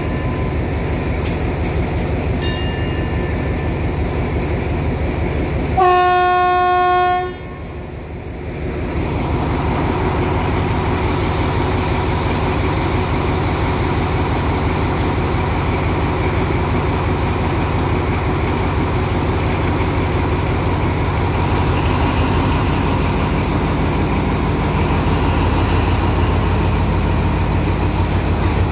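Passenger train at a station, a steady low rumble throughout. About six seconds in, one long train horn blast lasting about a second and a half. Later the diesel engine of locomotive 4213, an Alsthom AD24C, runs beside the platform, its rumble growing louder near the end.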